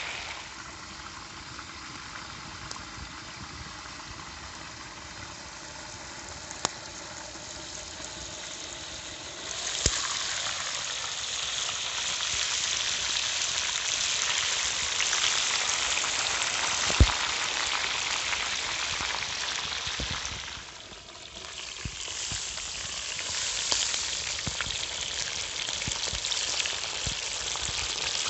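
Chicken and potatoes frying in fat on a steel disc pan over a campfire: a steady sizzle that grows clearly louder about ten seconds in, dips briefly near two-thirds of the way, then carries on. A few sharp clicks cut through it, the loudest past the middle.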